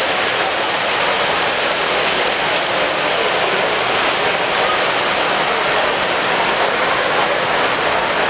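Steady crowd noise from many people talking at once, blended into an even wash with no single voice standing out.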